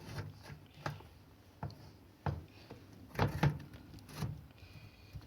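Clicks and light knocks of a washing machine door and its lock being handled and fitted into place, irregular strikes every second or so, loudest a little past halfway.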